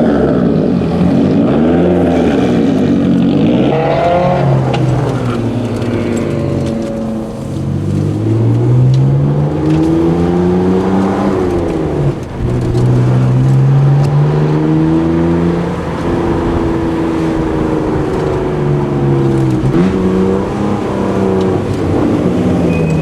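Car engine running while driving slowly, its pitch climbing as it accelerates and dropping at gear changes about halfway through and again near the end.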